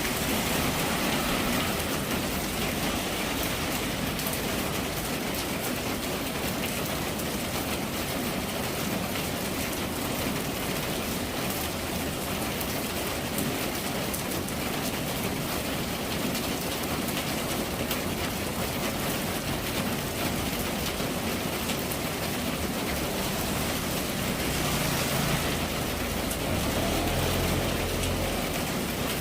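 Steady rain falling, a dense patter of drops on hard surfaces. A low rumble swells briefly near the end.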